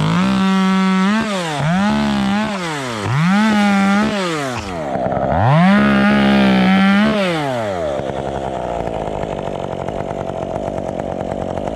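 Two-stroke chainsaw revving to full throttle four times, each burst held about a second and dropping back in between, as branches are cut, then settling to a steady idle about two-thirds of the way in.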